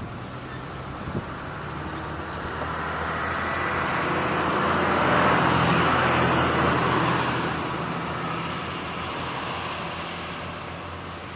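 A road vehicle driving past, its sound rising to a peak about six seconds in and then fading away.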